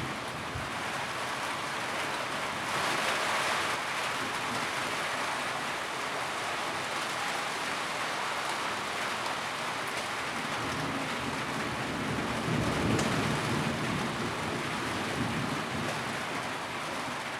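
Steady rain falling on a tin roof, swelling briefly a few seconds in, with a low rumble underneath in the second half.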